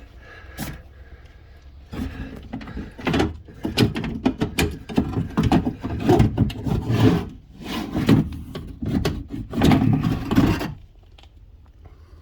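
Window regulator and motor assembly being worked out through the inside of a car door, with a couple of seconds of irregular knocking, clattering and scraping against the door's sheet metal that stops near the end.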